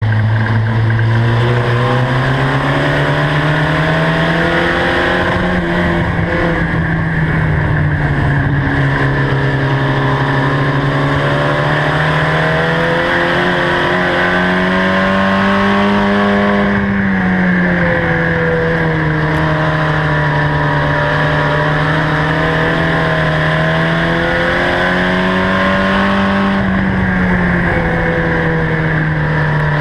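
Mini truck race engine at full race speed, its pitch climbing and then dropping again several times, about every ten seconds, as the truck accelerates and lifts off around the laps.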